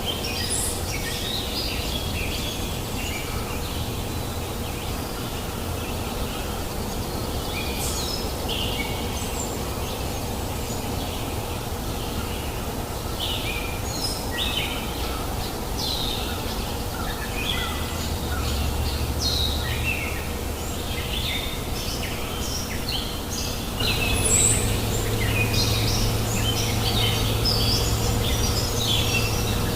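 Many small birds chirping and calling in quick, overlapping short notes over the steady rush of a river. The low rushing grows louder about three-quarters of the way through.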